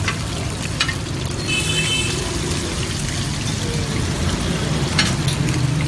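Chapli kebabs sizzling steadily as they shallow-fry in a wide pool of hot oil on a large flat tawa, with a few sharp clicks of the metal spatula against the pan.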